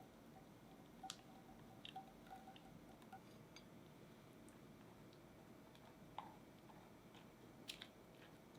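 Near silence with a few faint, light clinks and taps of kitchen utensils, one of them leaving a brief thin ring.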